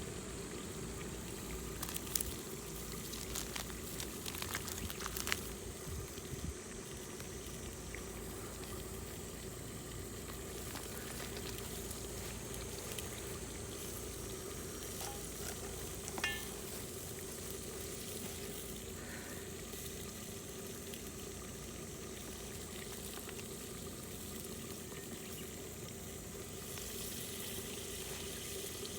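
Food sizzling and simmering in a pot over a wood fire, a steady hiss with a few sharp clicks in the first several seconds and another about sixteen seconds in.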